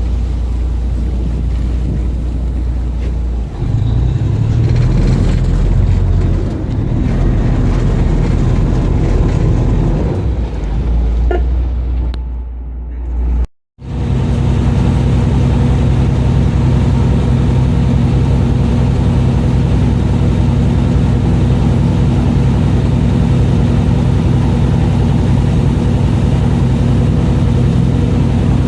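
Fishing boat's engine running with a steady low hum. Its note shifts unevenly in the first half, the sound cuts out for a moment about halfway through, then it runs on at an even pitch.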